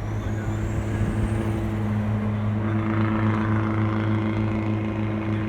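Car engine running steadily, a constant low hum with a faint high whine rising in pitch over the first second or so.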